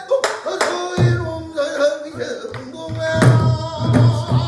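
Pansori singing accompanied by a buk barrel drum, with a handful of sharp drum strokes, about a quarter of a second, one second, three seconds and four seconds in, under the sung line.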